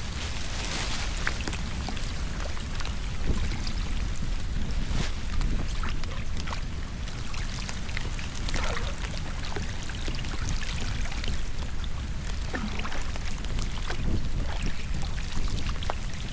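Floodwater draining into a storm drain: a steady rush of pouring water with scattered small splashes and knocks throughout.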